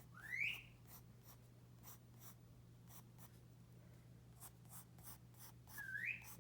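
Pencil strokes scratching on paper in short, repeated marks. A pet parrot whistles twice, each a brief rising whistle, about half a second in and again near the end; these whistles are the loudest sounds.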